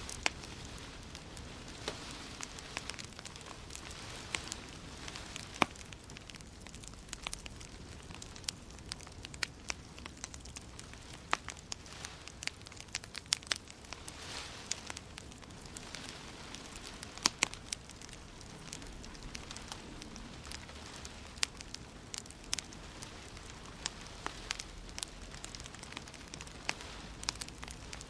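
Wood fire in a fireplace crackling, with frequent irregular sharp pops and snaps over a steady hiss.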